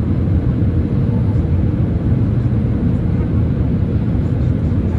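Steady low rumble of an Airbus A319 airliner's jet engines.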